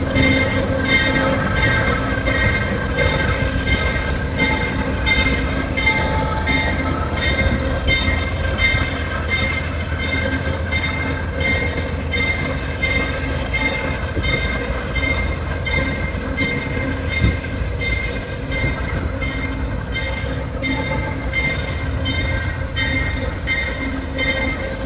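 Amtrak passenger train rolling along the track: a steady rumble with wheels clicking regularly over rail joints, about two clicks a second, and a high steady ringing whine over it.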